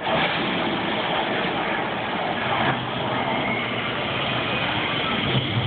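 Staged volcano eruption effect at Tokyo DisneySea's Mount Prometheus: a loud, steady rumbling roar, with the low rumble growing deeper and stronger near the end.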